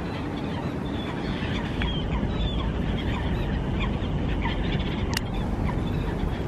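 Many short bird chirps, scattered and overlapping, over a steady outdoor background hiss, with a single sharp click about five seconds in.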